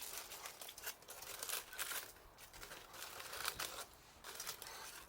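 Wrapping material crinkling and rustling in irregular bursts as it is handled.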